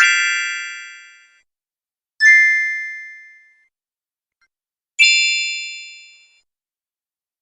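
Three separate ding sound effects, each a single bright chime that rings out and fades over about a second and a half, with dead silence between them: one at the start, one about two seconds in and one about five seconds in. Each ding has a different pitch.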